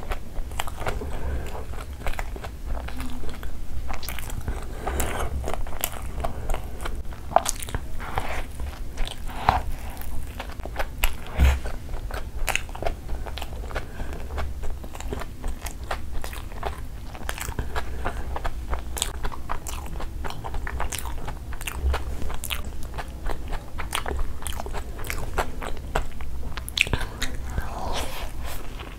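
Close-miked chewing of a mouthful of food: a dense, continuous run of small mouth clicks and smacks. Near the end comes a bite into a chicken shawarma roll.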